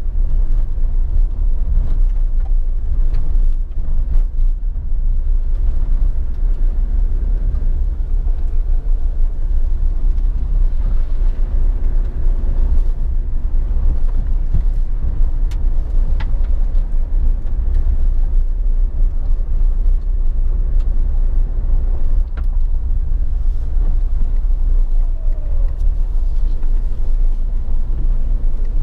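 Suzuki Jimny 1.5 VVT four-cylinder petrol engine running as the car is driven, over a steady deep rumble, with a few sharp clicks or knocks now and then.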